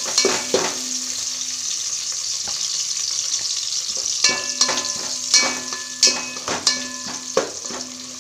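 Onions, green chillies, curry leaves and cashews sizzling in hot ghee and oil in an aluminium pot while a spatula stirs them. The spatula clanks against the pot's side several times, leaving a short metallic ring after each strike, most often in the second half.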